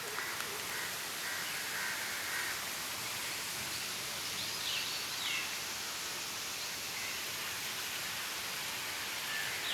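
Steady outdoor hiss with a few faint bird calls, about a second in and again around the middle.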